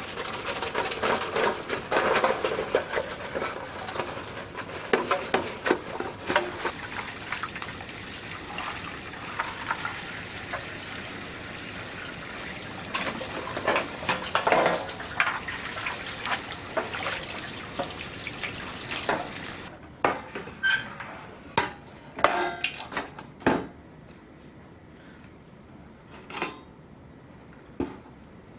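Metal cookware and utensils clattering and clinking, over a steady hiss that cuts off suddenly about two-thirds of the way in; after that come scattered single clinks and knocks.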